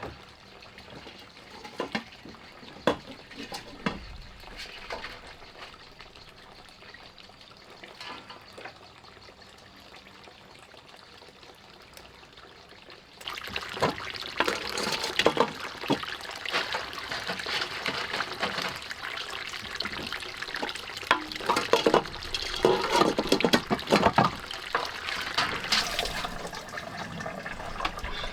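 Water running and splashing, with scattered knocks and clatter. It starts fainter and becomes much louder and denser about halfway through.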